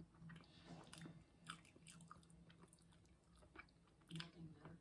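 Faint, close-up chewing and biting of a BBQ Polish sausage sandwich, with a scatter of small mouth clicks.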